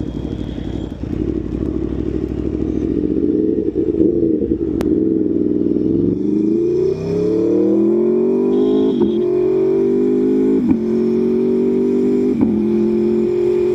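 Aprilia Tuono V4 1100 Factory's V4 engine under way, heard from inside the rider's helmet with wind on the microphone. The engine pulls at low revs at first, then the revs climb about halfway through. Three upshifts follow about two seconds apart, each a short break with a drop in pitch.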